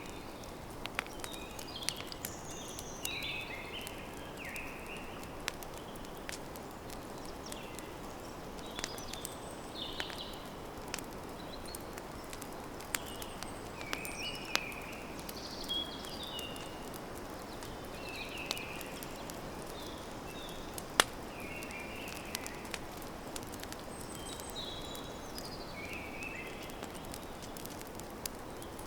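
Campfire crackling, with sharp pops scattered through a steady low rush and one louder pop about two-thirds of the way through. Birds chirp in short phrases every second or two behind it.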